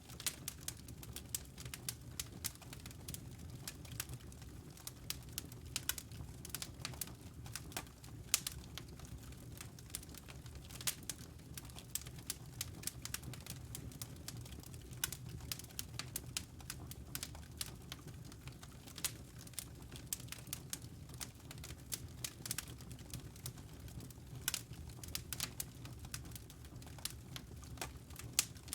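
Wood fire burning in a fireplace: irregular crackles and snapping pops several times a second over a steady low rumble of the flames.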